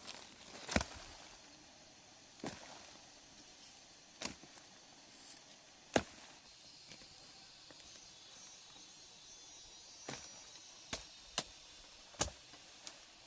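A series of sharp, irregular knocks or chops, about nine in all, the loudest about six seconds in, over a faint steady high-pitched hum like insects.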